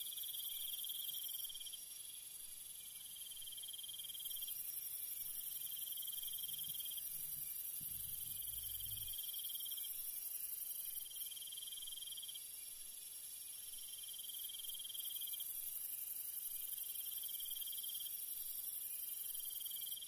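Night insect chorus: crickets trill in repeated stretches of a second or two with short gaps, over a steady high-pitched insect hiss. A brief low rumble comes about eight seconds in.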